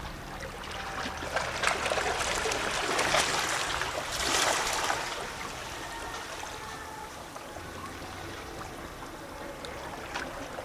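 Small sea waves lapping and sloshing against shore rocks, with plopping and gurgling splashes. A larger wash swells between about two and five seconds in, then the water settles back to gentle lapping.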